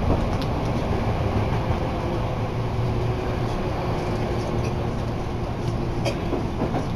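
Steady rumble of a moving Hankyu Senri Line electric train heard from inside the car, with a faint steady tone through the middle and a single sharp click about six seconds in.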